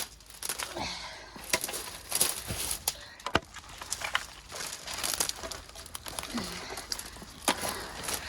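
Gorse bush and vines being pushed and broken through: branches rustling, with twigs snapping and crackling in irregular bursts.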